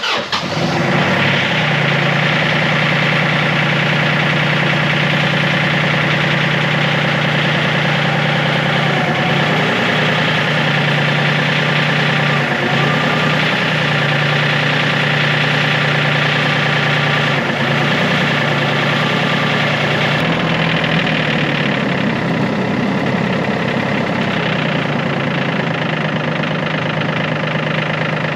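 Yanmar tractor's diesel engine idling steadily with a knocking clatter.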